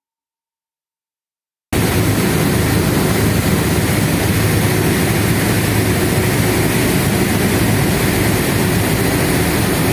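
Fast passenger boat's engines running at speed, a loud steady drone with a rushing noise over it, cutting in suddenly after about two seconds of silence.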